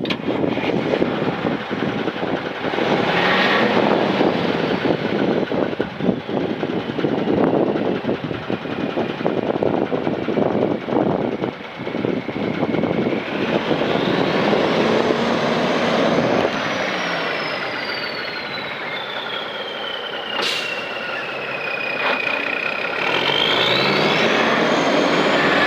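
1989 Kenworth T600 truck's diesel engine running and revving, its pitch and a high whine climbing and falling several times as the revs change. There is one brief sharp sound about twenty seconds in.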